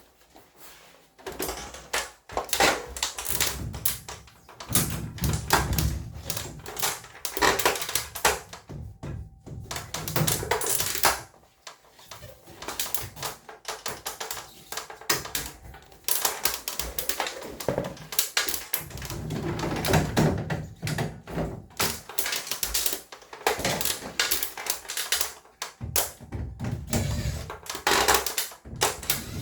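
Irregular clattering, clicking and knocking of parts being handled while a ceiling-mounted cassette air conditioner is taken apart, with short pauses between bursts of work.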